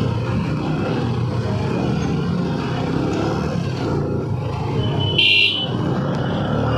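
TVS Apache RTR 160's single-cylinder engine running steadily at low speed in traffic. A little after five seconds in, a vehicle horn beeps once, briefly.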